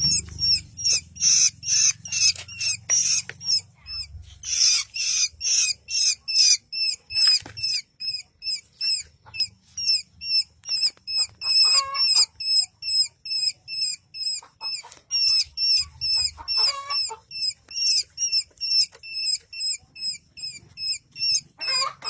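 Young bird chirping: short, high-pitched squeaky calls repeated about two to three times a second, louder and more crowded during the first several seconds.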